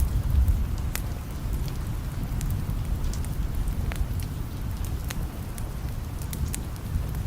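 Steady rain with a deep rumble of distant thunder that eases off after the first second. A fireplace crackles over it, with scattered sharp pops about a dozen times.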